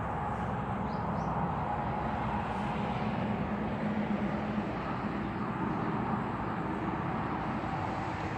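Steady outdoor background noise, a continuous low rumble and hiss, with a few faint high chirps about a second in.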